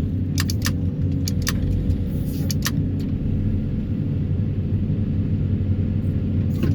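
Excavator diesel engine running steadily with a low pitched drone, with a handful of sharp metallic clicks in the first few seconds and one more near the end.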